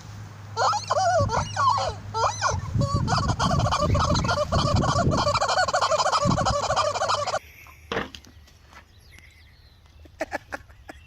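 Turkeys gobbling: a run of rapid, warbling gobbles lasting several seconds that cuts off abruptly, followed by faint scattered clicks and taps.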